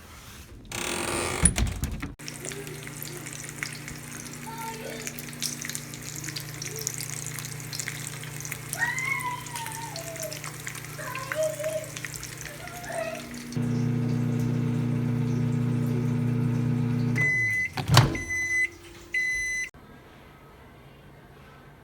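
Microwave oven running with a steady electric hum, then stopping and beeping three times to signal that the heating is done, with a knock about a second after it stops.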